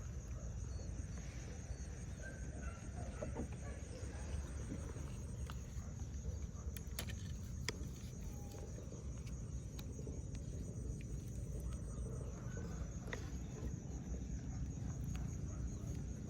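Outdoor ambience: a steady low rumble with faint, scattered bird calls and a few sharp clicks, under a steady high insect-like hum.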